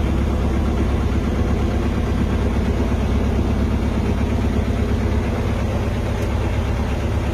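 Narrowboat's diesel engine running steadily while under way, a low, even, rapid throb.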